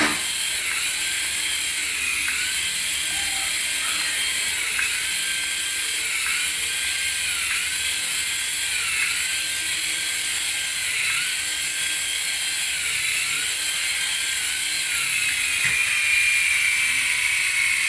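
A small battery-powered toy's motor and plastic gears whirring, its pitch dipping and recovering about every two seconds over a steady hiss.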